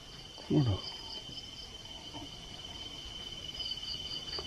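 Night insects calling steadily: a continuous high trill with a pulsing, higher chirping over it. A short falling vocal sound from a man comes about half a second in.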